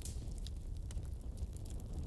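Wood fire crackling in a fireplace: irregular small snaps and pops over a steady low rumble of the flames.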